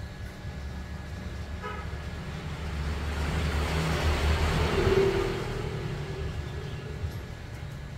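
A vehicle passing by, swelling to a peak about five seconds in and then fading. A short horn toot comes just under two seconds in, over a steady low hum.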